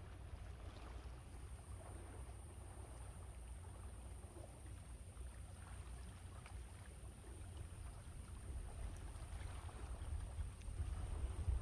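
Sea waves washing on the shore, with strong wind rumbling on the microphone; the sound swells louder near the end.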